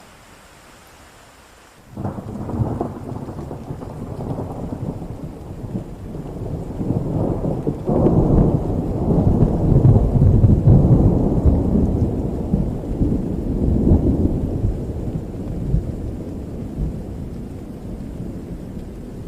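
Steady rain, then about two seconds in a long peal of thunder breaks in suddenly, builds to its loudest around the middle and slowly fades, the rain going on underneath.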